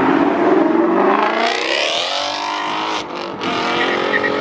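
A car engine revving hard as it accelerates away, its pitch climbing steeply for about a second and a half. There is a brief break about three seconds in, then it pulls on at high revs.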